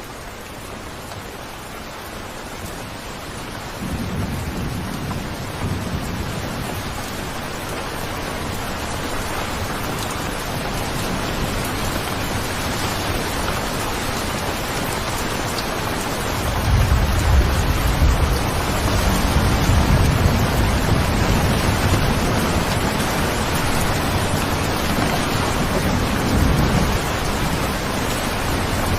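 Steady rain falling, with rolling thunder: a low rumble sets in about four seconds in, and a longer, louder roll of thunder runs from a little past the middle to near the end.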